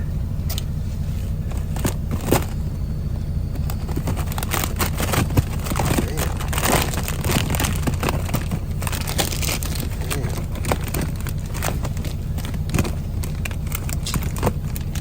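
Truck engine running with a steady low hum, under a busy run of crackling and crinkling from snack packaging being handled.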